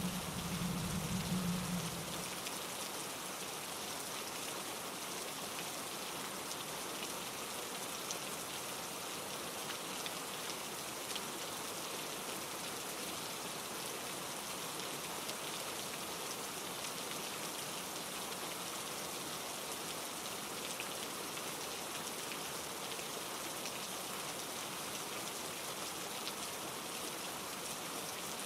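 Steady rain falling, an even hiss of drops on leaves and ground. A low rumble underneath stops about two seconds in.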